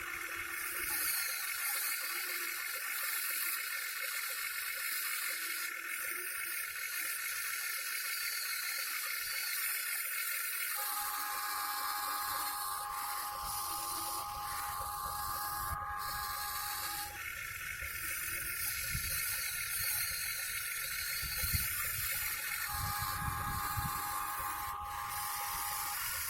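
Electric motors of a Huina 1580 RC excavator running with a steady whine over a hiss, the whine stepping to a different pitch a few times. A low rumble comes and goes in the second half.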